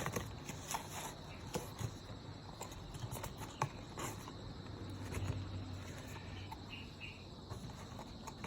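Scattered light clicks and taps of a new oil filter and its packaging being handled, over a faint steady high-pitched whine.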